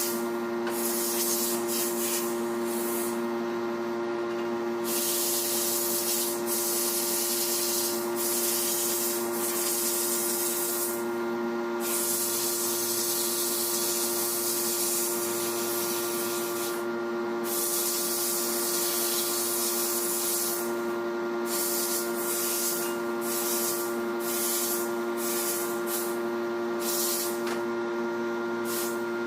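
Sandblasting cabinet blasting alternator parts: the blast gun's hiss comes in on-and-off spells of a few seconds over the steady hum of the running machine.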